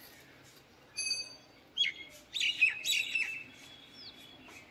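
Birds chirping: a short clear note about a second in, then a quick run of loud chirps, the loudest part, over the next second and a half, and a faint rising call near the end.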